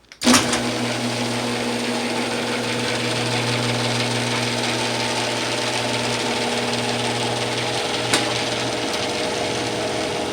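Genie Pro screw-drive garage door opener started from the wall button: a click, then the motor running steadily with a hum and buzz as it drives the door. There is a short click about eight seconds in.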